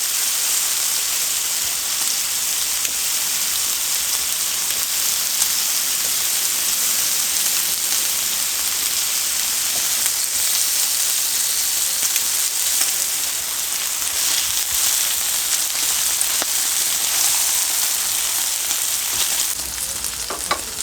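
Food frying in a hot pan, a steady dense sizzle, thinning near the end with a few sharp clicks of a utensil.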